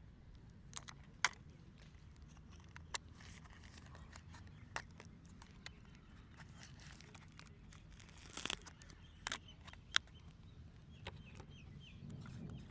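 Faint handling sounds from a plastic drone and its packaging: scattered light clicks and taps, with a short crinkle about eight and a half seconds in.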